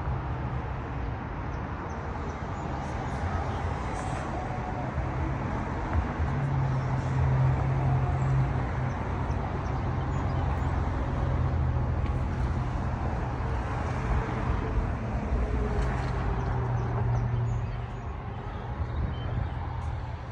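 Mercury 250 hp four-stroke outboard running steadily as the pontoon boat moves along, a low hum under a broad steady rush.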